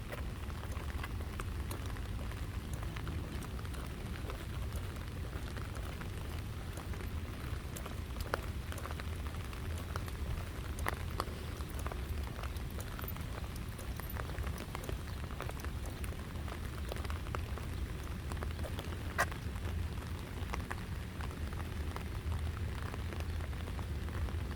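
Rain falling, with scattered drops ticking sharply close by, over a steady low rumble.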